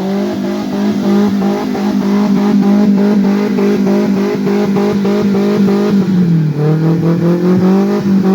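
Off-road 4x4's engine held at high revs, dipping briefly about two-thirds of the way through and climbing back up.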